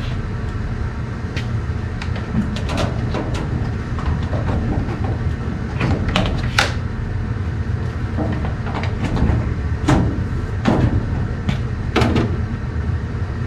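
Hands-on work fitting an evaporator coil: scattered clicks and metal knocks as sheet metal and tools are handled, over a steady low hum.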